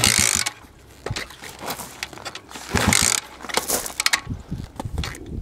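A small dirt bike being kick-started by hand, with two kicks of the kick starter about three seconds apart and mechanical knocks and rattles between them. The engine does not catch.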